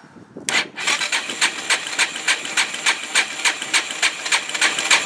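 Yamaha TT-R230's single-cylinder four-stroke engine being cranked over on its electric starter for a compression test, with an even pulse about three to four times a second. The gauge reads low, which the owner takes for a major compression leak from worn valves or piston rings and cylinder.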